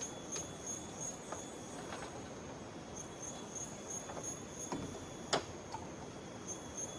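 Insects calling steadily in forest ambience, a high pulsing chirp repeating about three times a second. Scattered clicks and knocks are heard over it, with one sharp snap about five seconds in as the loudest sound.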